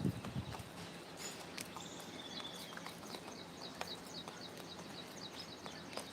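A small bird chirping: short high notes repeated in a steady rhythm, several a second, with scattered faint clicks and taps.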